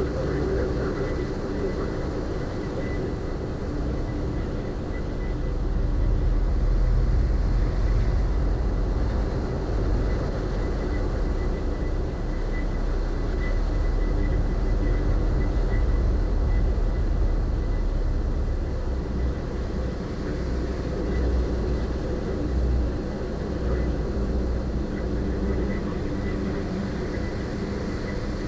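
Ferry's engines running steadily while under way, a continuous low drone with a steady hum.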